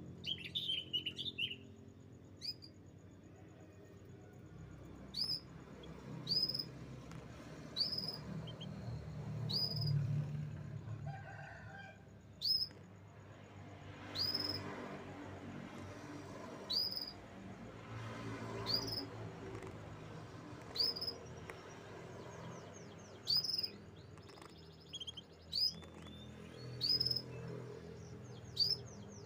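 Domestic canary chirping: a quick twitter at the start, then single short, sharp chirps about every second or so, with a few rapid trills near the end, over a faint low hum.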